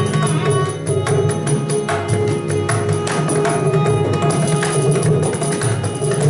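Carnatic instrumental passage: a mridangam playing rapid strokes, with sustained pitched notes from the accompanying violin underneath.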